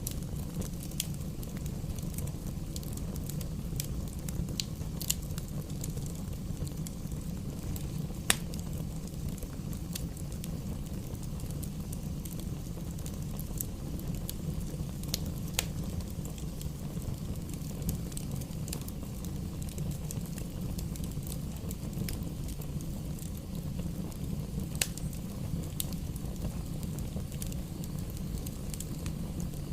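Bonfire burning: a steady low rumble with scattered sharp crackles and pops, the loudest about eight seconds in.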